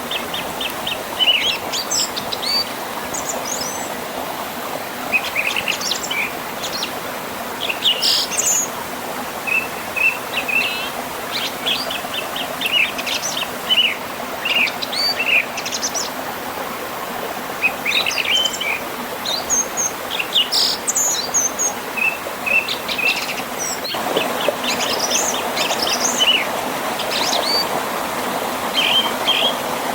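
Several birds singing and chirping in quick short phrases and trills, over the steady rush of a river flowing past a small waterfall.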